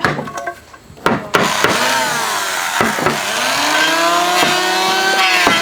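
A few knocks on wood, then, about a second and a half in, a chainsaw starts running, its pitch dipping and rising again as it cuts wood.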